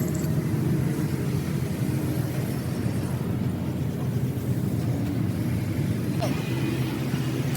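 A steady low engine drone with an even pitch.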